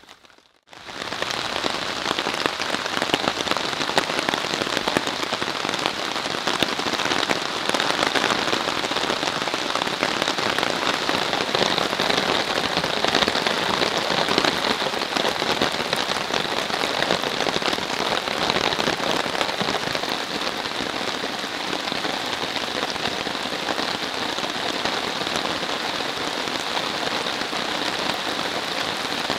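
Steady rain falling on a tarp overhead and the forest around it, a dense hiss of countless drops. It starts just under a second in after a moment of silence.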